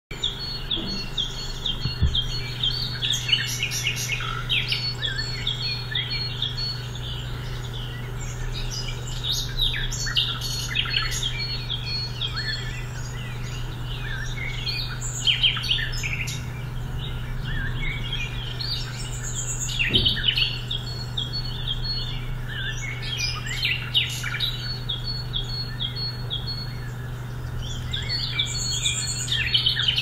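Several birds chirping and calling without a break, with a repeated high trill, over a steady low hum.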